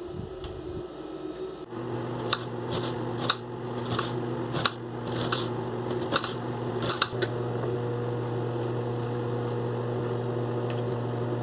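Microwave oven running with a steady low hum that starts about two seconds in, with several sharp clicks over the next few seconds.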